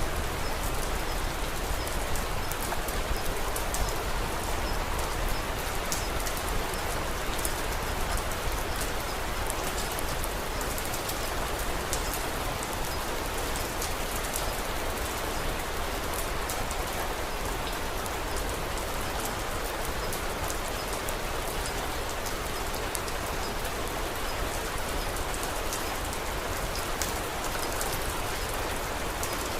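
Steady rain falling, with scattered sharp crackles and ticks from a wood fire on top.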